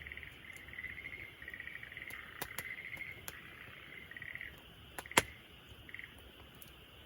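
Wood fire crackling with a few sharp snaps and one loud pop about five seconds in, over insects chirping in short pulsed trills that fade out near the middle.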